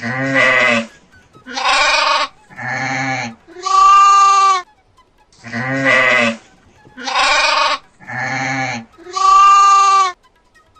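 Goat bleating: four loud bleats, the last one higher and clearer, then the same four bleats again.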